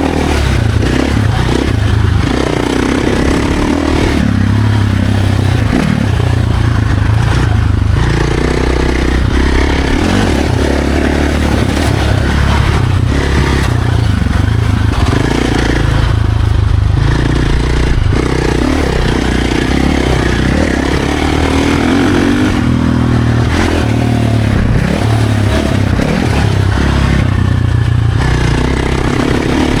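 Dirt bike engine running hard and revving up and down as it is ridden over a trail, with clatter from the bike on rough ground.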